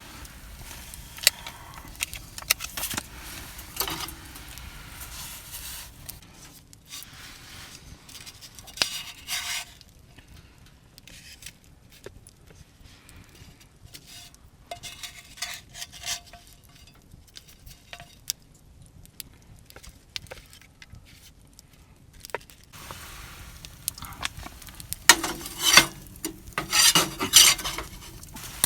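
Metal utensils clinking and scraping against a pan or dish in short, irregular bouts, busiest near the end.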